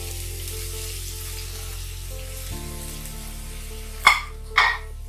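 Sliced onions sizzling in hot coconut oil in a frying pan, a steady hiss, with two sharp knocks about half a second apart near the end.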